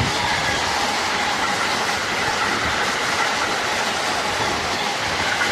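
Freight train of double-deck car-carrier wagons passing at speed: a steady, loud rush of steel wheels rolling on the rails.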